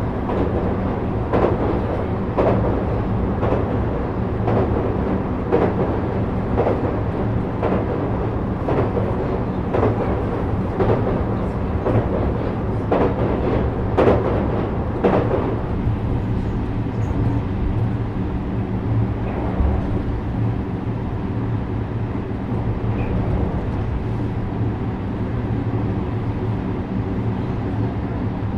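JR West 321 series electric train running along the line, its wheels clacking over rail joints about once a second for the first half. The clacks then stop, leaving a smooth running rumble with a steady motor hum.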